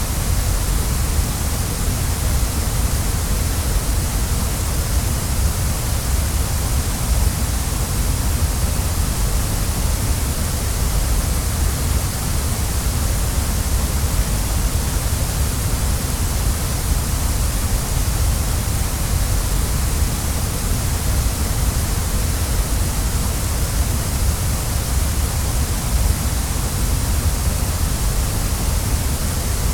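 Waterfall: a steady, even rush of falling water, with a deep rumble underneath and a bright hiss on top.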